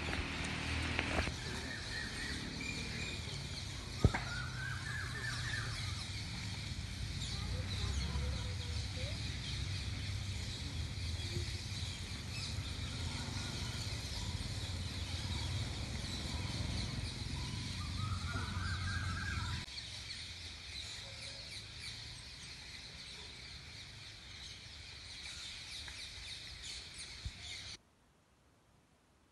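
Birds calling outdoors, with longer rising calls about four seconds in and again near 18 seconds, over a steady low rumble that stops about two-thirds of the way through. The sound cuts out near the end.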